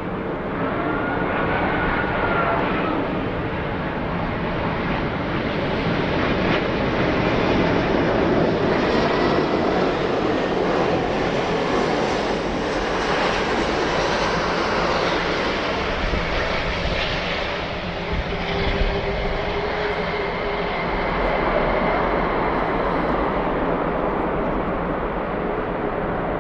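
Airbus A380 jet airliner's four engines, a loud steady rushing jet noise with faint tones that shift in pitch, as the aircraft lands.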